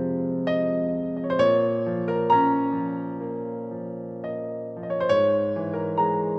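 Slow, gentle piano music: single notes and chords struck every second or so and left to ring out.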